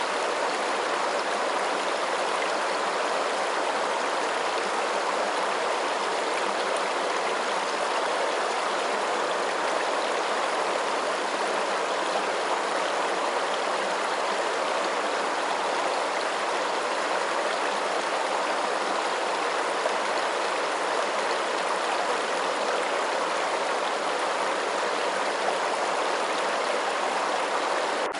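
Running water with a steady, even rushing sound that does not change, played as a continuous water white-noise track.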